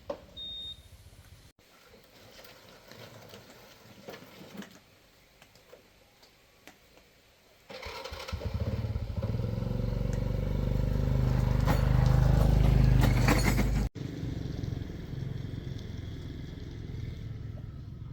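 A few faint clicks and knocks, then about halfway through an engine starts running with a low, steady sound and grows louder. It breaks off abruptly and carries on a little quieter near the end.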